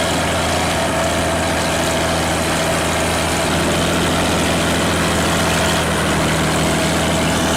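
Kirovets K701 tractor's diesel engine running steadily as the tractor tries to work itself free from deep snow.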